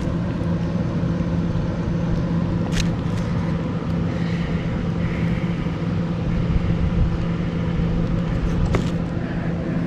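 Steady mechanical hum of a running motor or engine, with a couple of faint clicks.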